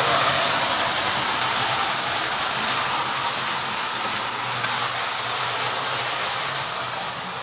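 Toy electric train, a Marx 1666 locomotive with a Lionel 2466 whistle tender, running on its layout: a steady hissing whoosh over a faint low hum, easing off slightly near the end.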